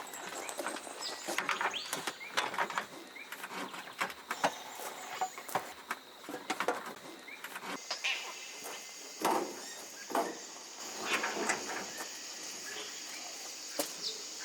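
Irregular knocks and clicks, with a steady high-pitched hiss setting in about eight seconds in.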